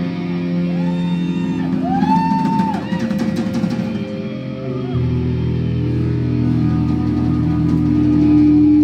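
Live rock band playing the opening of a song: held electric guitar notes with a few gliding, arching tones in the first few seconds, and a low bass line coming in about halfway through.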